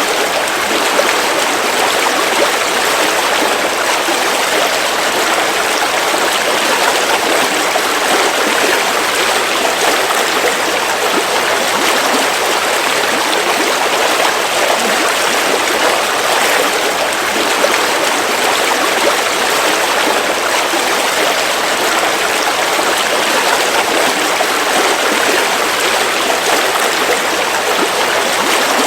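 River water flowing and splashing over rocks, a steady rushing babble.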